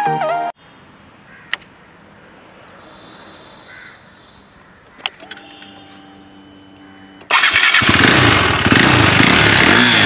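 KTM RC 390's single-cylinder engine being started: a click, a short steady hum for about two seconds, then the engine fires about seven seconds in and keeps running loudly at idle.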